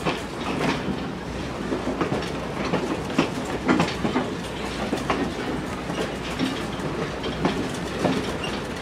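Train rolling along the track: steady rumble with irregular clicks and clacks of the wheels passing over rail joints.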